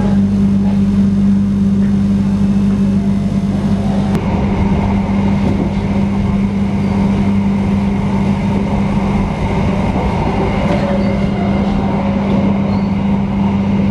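Passenger train running, heard from inside the carriage: a steady low hum under a rumble from the rails that grows louder about four seconds in as the train gathers speed away from a station.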